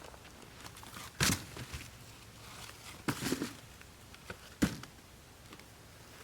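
Three sharp knocks or clunks against a quiet room: one about a second in, a short double knock around three seconds, and a last one a little after four and a half seconds.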